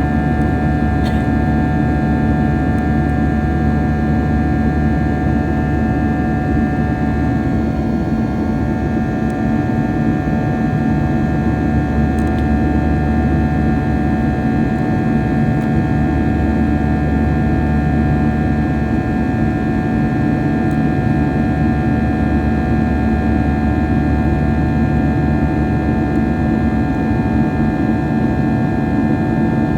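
Steady cabin drone inside a Boeing 737-800 airliner in flight: constant rumble of airflow and its CFM56-7B jet engines, with several steady engine tones held at an even pitch.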